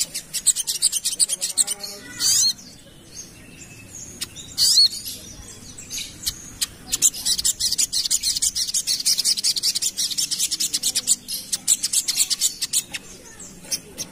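Little spiderhunter (sogok ontong) singing a rapid, high-pitched chattering song of fast ticks. It comes in spells: a run at the start, two short swooping notes about two and five seconds in, then a long dense run from about seven seconds until near the end.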